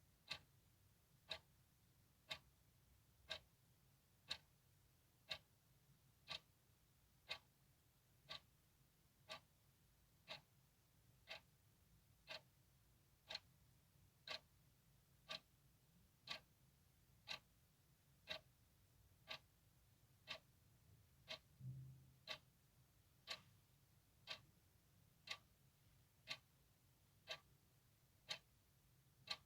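A clock ticking steadily, one sharp, faint tick about every second. A soft low thump comes about three-quarters of the way through.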